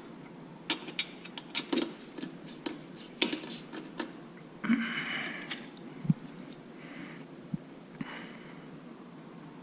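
Clinks and taps of hand tools and metal exhaust hardware being handled, with a short rushing sound about five seconds in and a few dull knocks after.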